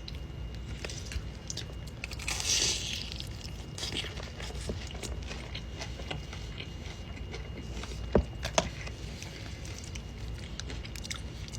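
Close-up eating of fried mac and cheese balls: a crunchy bite about two seconds in, then chewing with small scattered clicks, and two sharp clicks about eight seconds in.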